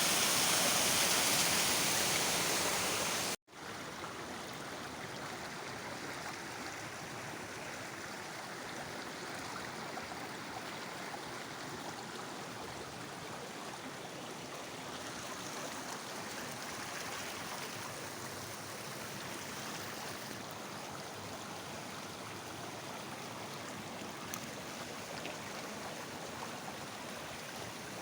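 Rushing water. A loud rush cuts off abruptly about three and a half seconds in, then gives way to a steady, quieter flow.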